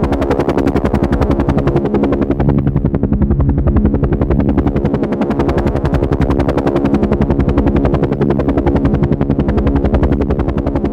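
Helicopter running steadily, its rotor blades giving a fast, even chop over a steady engine drone.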